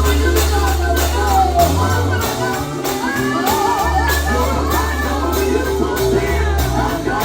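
Live gospel singing with a band: voices sing with vibrato over a bass line and a steady drum and tambourine beat.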